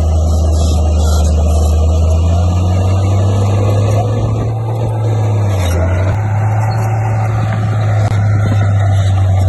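Bulldozer's diesel engine running under load with a steady low drone; its pitch steps up about two seconds in and shifts again around six seconds.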